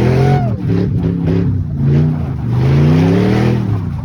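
Car engine revving hard, climbing in pitch in repeated long pulls that each drop off before rising again.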